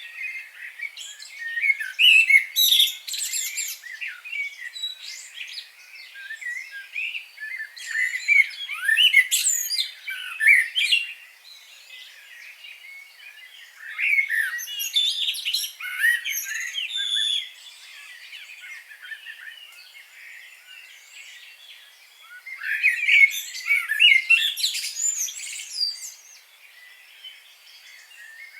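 Several wild birds chirping and singing, many quick, high-pitched overlapping notes. They come in about four bursts a few seconds long, with fainter chirping in between.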